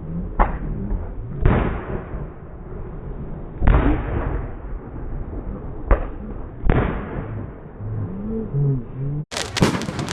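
Fireworks exploding: five separate loud bangs a second or two apart, each trailing off in an echoing rumble. Near the end comes a quick run of sharp crackles.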